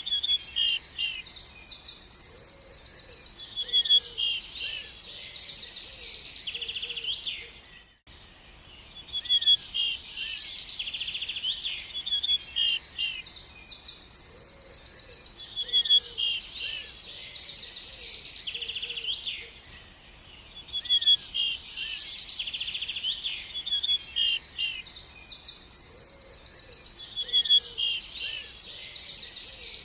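Songbird singing: long phrases of rapid high trills and chirps, the same song repeating about every twelve seconds with short pauses between.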